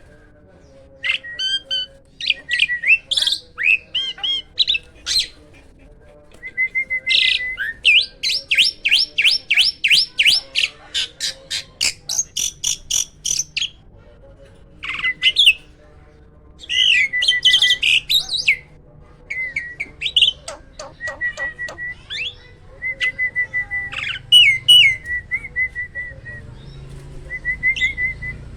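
Hybrid jalak (starling) singing loudly: a varied song of whistles, pitch glides and clicks, with a fast run of repeated notes, about four a second, in the middle, and short level whistles between phrases.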